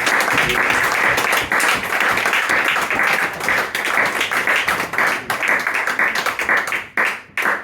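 Audience applauding at the end of a song, a dense patter of hand claps that thins to a few last separate claps near the end.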